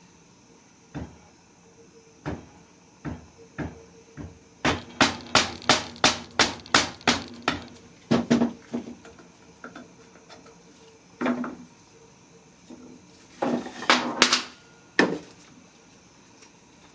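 Hammer tapping on a Honda GX31 engine during teardown, plausibly to split the crankcase halves. A quick run of about ten ringing metal strikes, roughly four a second, is followed by scattered single knocks and a short flurry near the end.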